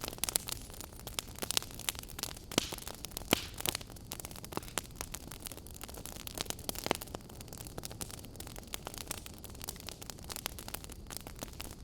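Fireplace fire crackling: irregular sharp pops and snaps, several a second, over a steady low hiss.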